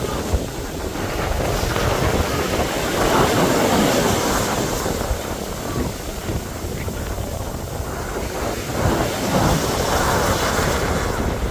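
Sea waves breaking and washing onto the beach, swelling twice as waves come in, with wind buffeting the phone's microphone.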